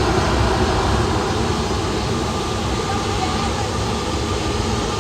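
Jet aircraft engines running, heard as a steady rush of noise that neither rises nor falls.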